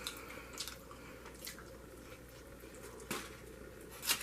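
Close-up mouth sounds of a person chewing food: a few short wet clicks and smacks, the loudest about three seconds in and just before the end.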